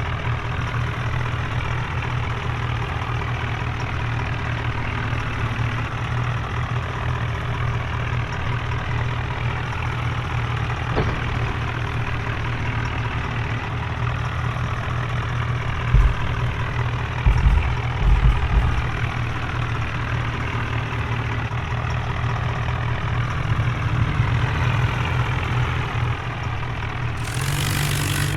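Tractor diesel engines running steadily with a deep, even drone. A few low thumps come about two-thirds of the way in, and a short burst of hiss near the end.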